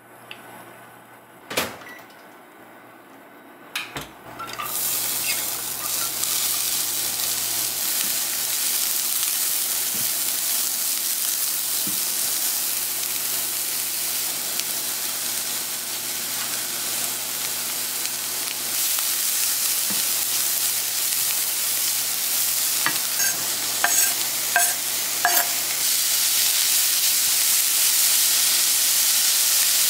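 Diced onion sizzling in hot oil in a non-stick wok as it is stirred with a wooden spoon. The pan is quiet at first, with one sharp knock, and the frying starts about four seconds in. A few light clicks come near the end, and then the sizzle grows louder as bacon strips go into the pan.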